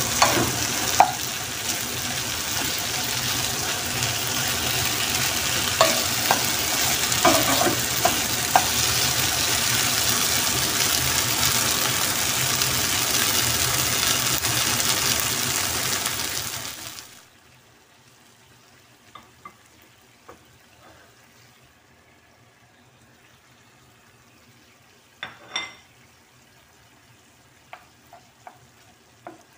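Chicken and vegetables (squash, eggplant, chilies) sizzling as they are stir-fried in a pan, with a few clacks of the cooking utensil against it. About seventeen seconds in, the sizzle cuts off abruptly, leaving only a few faint clicks and knocks.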